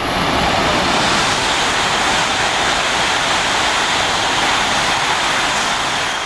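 Coupled E5 and E6 series Shinkansen train passing straight through a station at high speed: a loud, steady rushing noise of air and wheels that starts to fade right at the end.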